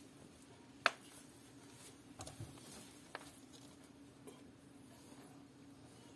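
A few faint, scattered taps and clicks, the sharpest about a second in, over a low steady hum.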